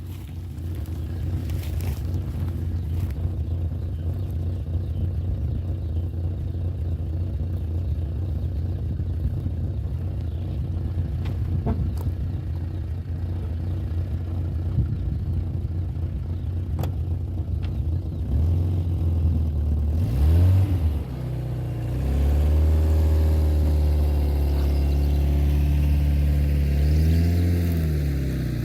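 Motor vehicle engine running with a steady low rumble, then revving up and back down twice in the last ten seconds, holding a steady higher note between the revs.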